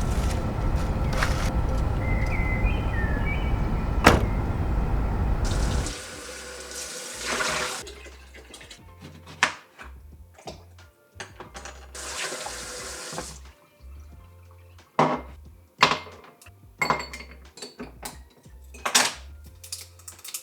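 Loud, steady rushing water, cutting off abruptly about six seconds in. Scattered clicks and knocks with two short hissing bursts follow at a much lower level.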